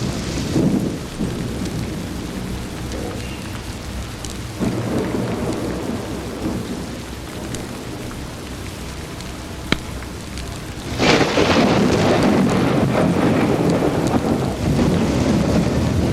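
Steady rain with a low rumbling of thunder, and a single sharp snap a little before the middle. About eleven seconds in, a louder thunder peal swells up and keeps rolling.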